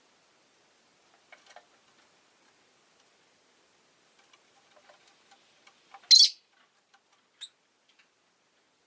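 Rosy-faced lovebird giving one sharp, shrill chirp about six seconds in and a shorter chirp a second later, amid faint scattered clicks and ticks.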